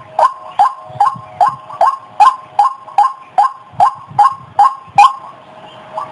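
White-breasted waterhen (ruak-ruak) calling: a rapid, even run of short, sharp notes about two to three a second, breaking off briefly near the end.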